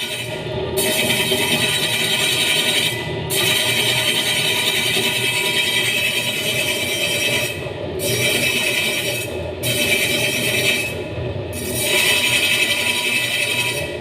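Electric meat slicer running: its motor and spinning circular blade make a steady hum with a hiss that cuts out briefly several times.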